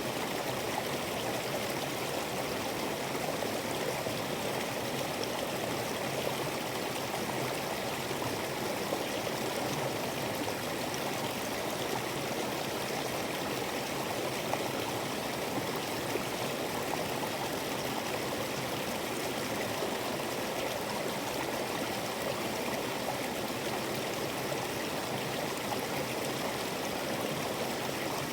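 Waterfall on a creek: water spilling over the drop in a steady, unbroken rush.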